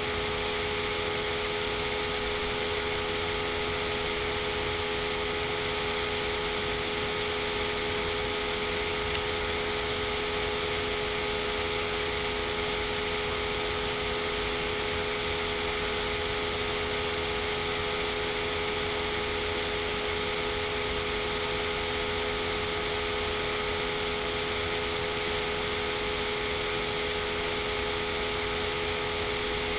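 Steady background hiss with a constant hum of several fixed tones, unchanging throughout, with no distinct events.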